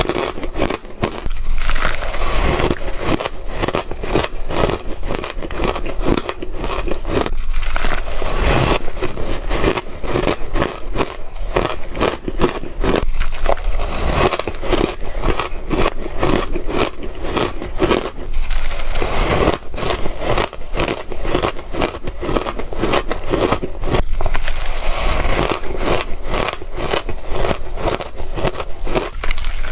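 Shaved ice mixed with sesame seeds being bitten and chewed, a dense crunching crackle that goes on without a break.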